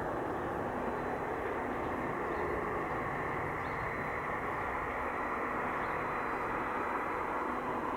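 Steady aircraft engine noise at an even level, with a faint hum under it and a band of sound that drifts slowly up and down in pitch.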